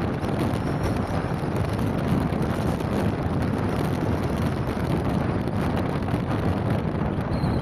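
Steady road and wind noise of a car driving along, an even rumble heaviest in the low end, with wind on the microphone.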